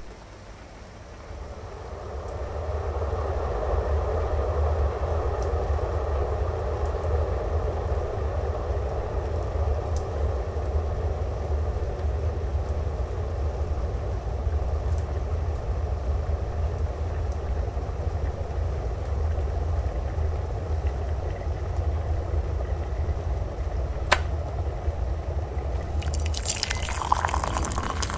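Electric kettle heating and coming to the boil with a steady rumble, clicking off about twenty-four seconds in, then hot water poured into a mug near the end.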